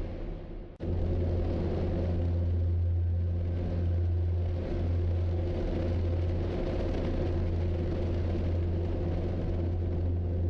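Steady low vehicle engine drone and rumble from police chase footage, briefly dropping out just under a second in.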